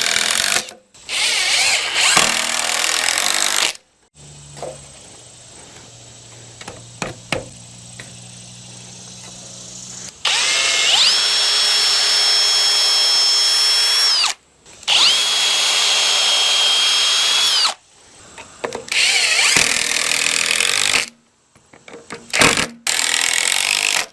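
Power tools at work on walnut boards: a few loud noisy bursts, then twice a drill whining up to speed and running steady for a few seconds before stopping.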